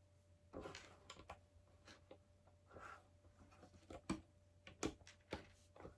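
Faint, irregular clicks and light rustles of small plastic LEGO pieces being handled and picked through.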